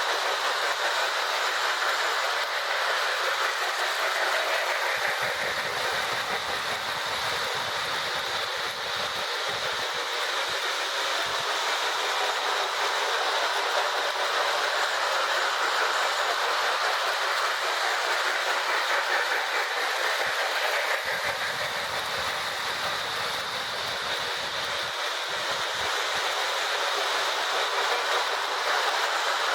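Marx 1666 O-gauge toy steam locomotive pulling its train of cars around the track, a steady whirring run with wheels clicking over the rail joints. A deeper rumble joins in twice for a few seconds.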